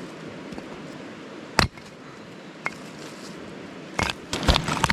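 Pieces of cut cedar firewood knocking together as they are handled: one sharp knock about a second and a half in, a small click later, then a short clatter of several knocks near the end, over a steady background hiss.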